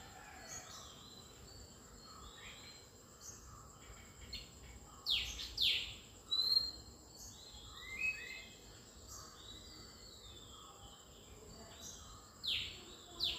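Small birds chirping and calling, with a few sharp calls that sweep down in pitch about five seconds in and again near the end, over a faint steady high whine.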